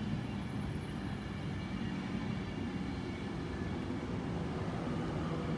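Class 390 Pendolino electric train at the platform, giving a steady hum with faint steady tones over an even rumble.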